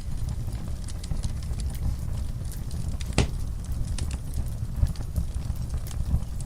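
Wood fire in a fireplace crackling, with frequent small irregular pops over a low steady rumble and one louder pop about three seconds in.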